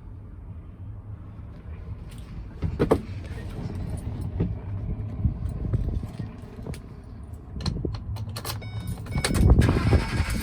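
Keys jangling and sharp clicks inside a Ford E-350 box truck's cab over a steady low rumble, with a louder burst of low sound about a second before the end.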